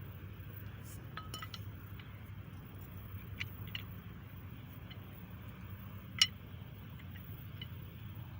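Metal pieces of a camshaft bearing remover/installer tool clinking lightly as they are handled and set down, with one sharper clink about six seconds in, over a steady low hum.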